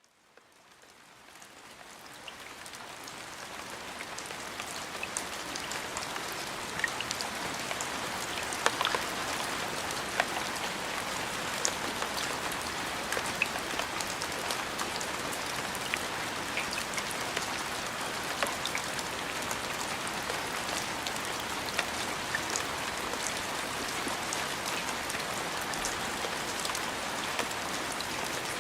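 Steady rain falling, an even hiss with scattered sharper drops ticking, fading in from silence over the first few seconds.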